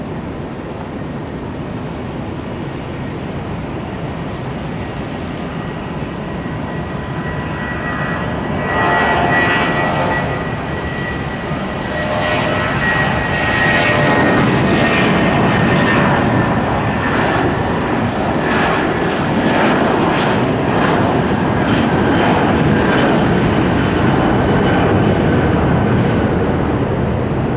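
Jet airliner's engines at takeoff power, the sound swelling about eight seconds in and staying loud, with a steady high whine over the roar.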